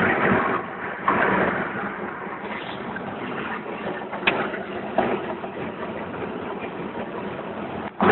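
Train going by: a steady rolling rattle of wheels on rail, with a few sharp metallic clanks partway through.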